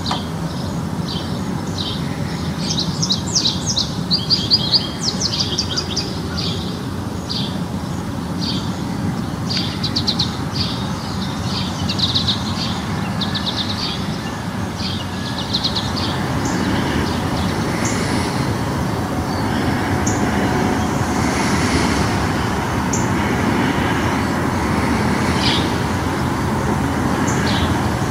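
Small songbirds chirping in quick repeated trills for about the first half. From about halfway, a low, even rumble of a passing vehicle builds and grows louder while the birdsong thins out.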